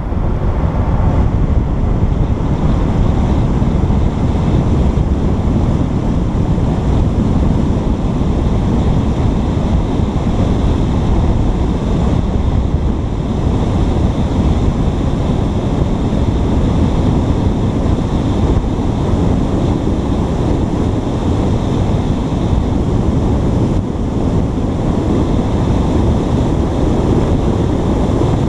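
Steady, loud wind rumble buffeting a GoPro's microphone, with no breaks.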